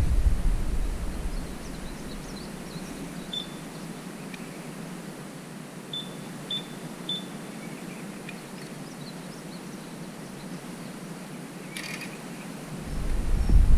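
Quiet outdoor background with a low wind rumble at the start and again near the end, a few faint short high clicks in between, and one sharper click about twelve seconds in.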